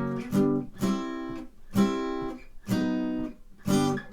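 Guitar strummed in the gallop strum (бой галоп): quick down-up-down strokes with accented beats and muted gaps, playing the chords of the song's intro.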